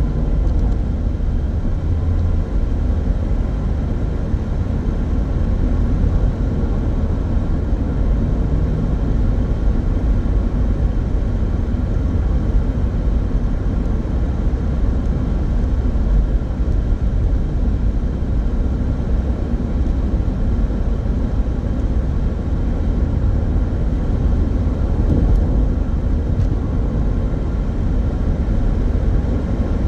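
Steady rumble of road and engine noise inside a moving car's cabin, heaviest in the low end, with no distinct events.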